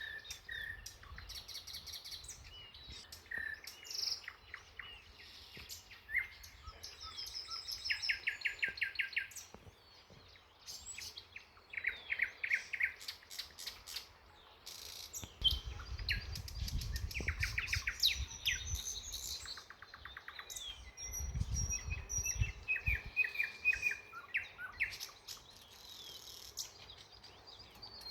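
Several songbirds singing and calling, their phrases overlapping: rapid trills of quick notes and short chirps. Twice, about halfway through and again a few seconds later, a low rumble sits beneath the song.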